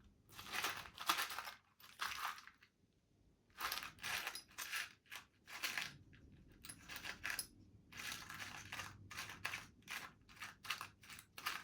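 Small metal parts clicking and rattling in short irregular clatters as they are rummaged through, with a brief pause about three seconds in.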